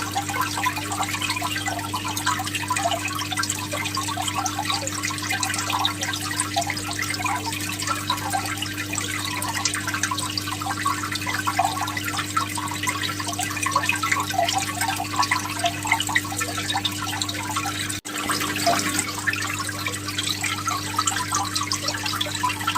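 Aquarium water trickling and splashing steadily, full of small drips and bubbles, over a low steady hum. The sound breaks off for an instant about 18 seconds in.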